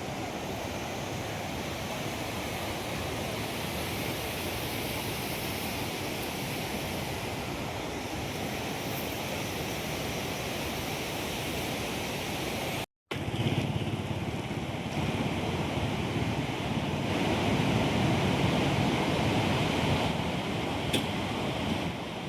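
Steady rushing of a river in flood. It breaks off briefly about 13 seconds in and comes back louder.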